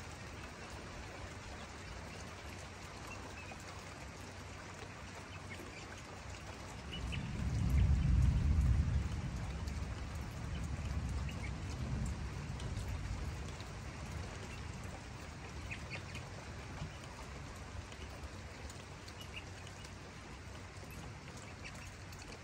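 Steady patter of light rain, with a deep rumble that swells about seven seconds in and dies away over several seconds.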